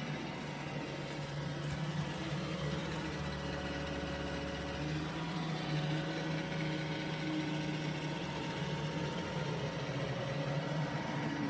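Robot vacuum running, its motor giving a steady whirring hum.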